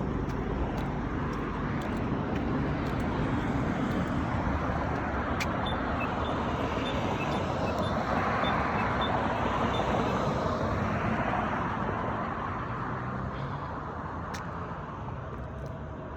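Road traffic: a vehicle's tyre and engine noise swells, is loudest about two-thirds of the way through, then fades away as it passes. Faint, evenly spaced high peeps sound for a few seconds in the middle.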